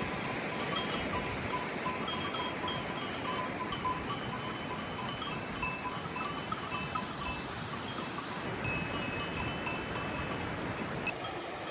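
Cowbells on grazing cattle clanking irregularly, many overlapping rings, over a steady soft background hiss.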